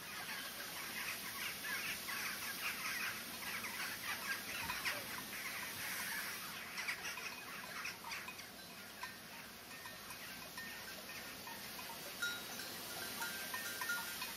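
Wild birds chirping and calling in a mountain pine forest, with many short chirps in the first half and a few thin whistled notes near the end, over a steady faint hiss.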